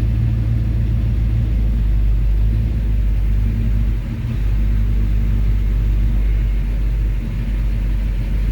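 Car engine idling, a steady low rumble heard from inside the car.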